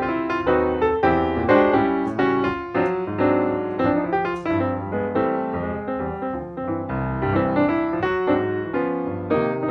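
Background piano music: a steady flow of notes at a moderate pace.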